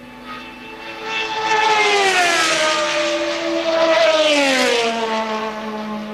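Two 1983 Formula One cars passing at speed one after the other, each engine note dropping in pitch as it goes by: the first about two seconds in, the second about four and a half seconds in.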